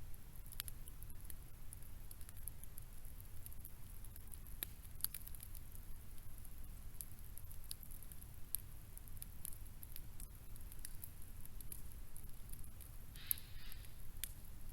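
Faint, irregular crackling and ticking over a low steady rumble, with a short hiss near the end.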